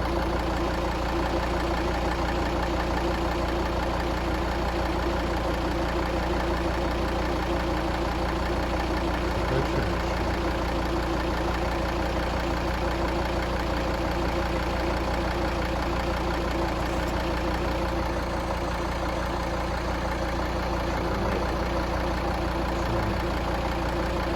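Volvo XC60's 2.4-litre five-cylinder diesel idling steadily during a block test of its coolant for combustion gases. The test shows exhaust gas getting into the cooling system.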